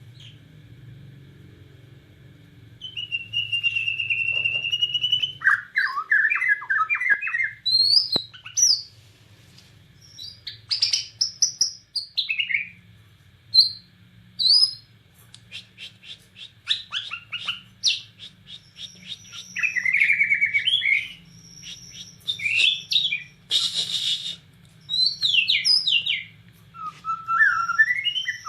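Bornean white-rumped shama (murai batu) singing in full voice after a near-quiet start: a long, varied run of clear whistles, slurred notes, fast rattling trills and a short harsh burst. A faint low hum runs underneath.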